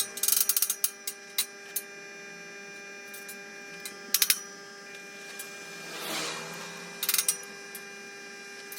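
Three short bursts of sharp clicking and rattling over a steady hum.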